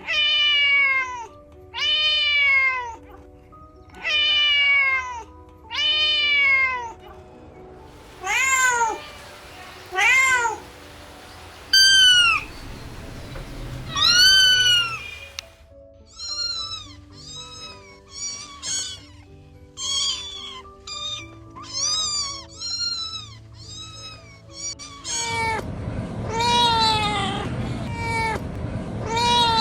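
Kitten meowing again and again: four longer meows, then a few higher-pitched ones, then a quick run of short meows from about halfway, over soft background music.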